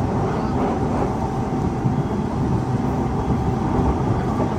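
Siemens C651 metro train running at speed, heard from inside the carriage: a steady, even rumble of the wheels on the rails.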